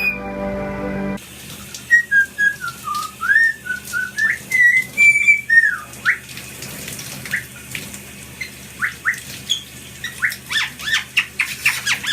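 A parrot whistling: a wavering, tune-like whistle that wanders up and down for a few seconds, then a run of short rising chirps that come faster and closer together near the end.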